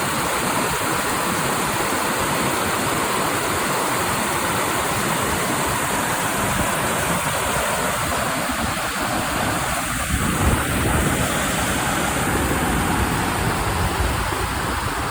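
Creek water rushing steadily, an even hiss. A low rumble joins about ten seconds in.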